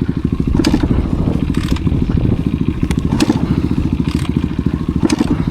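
Enduro motorcycle engine running with a fast, even beat, with short clattering noises about every second.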